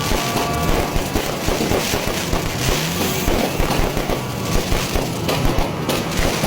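Fireworks going off in a dense barrage, many sharp cracks and bangs overlapping with no pause.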